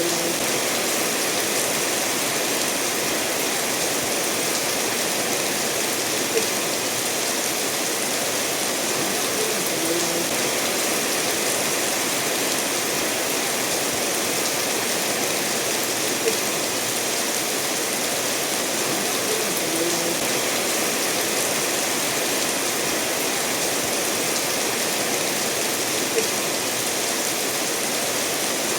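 Steady rainfall mixed with a stream of water running over stones, an even rushing hiss. Three brief, sharper drop or tap sounds stand out, about ten seconds apart.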